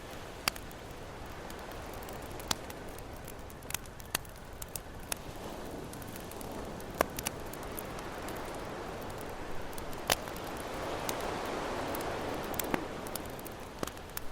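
Wood campfire crackling with scattered sharp pops over the hiss of ocean waves; a wave washes in more loudly a little past two thirds of the way through.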